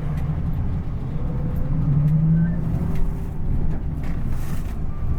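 Po Haryanto bus, fitted with a racing exhaust, running steadily under way: a continuous low engine drone with road noise.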